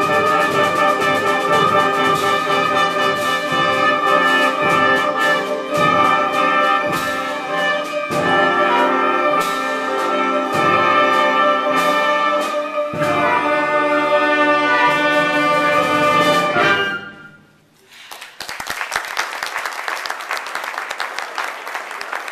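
A live concert band with brass plays the closing bars of a piece and stops about 17 seconds in. After a short pause, an audience applauds.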